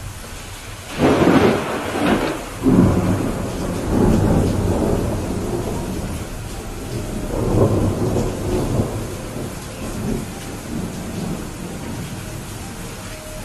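Thunder cracking about a second in and rumbling on in several rolling swells over steady, heavy rain, fading out toward the end.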